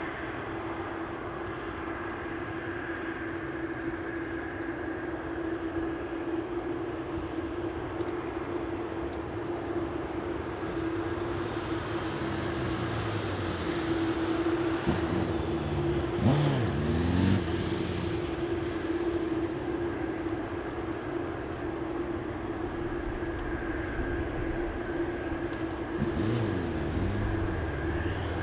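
Boeing 747-8F cargo jet with its GEnx engines running as it passes, a steady engine whine over jet noise. The sound swells and sweeps in pitch about halfway through, and again briefly near the end.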